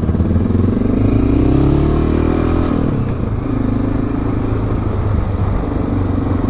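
Motorcycle engines pulling away: the engine pitch climbs for about three seconds as the bike accelerates, drops at a gear change, then runs steadier.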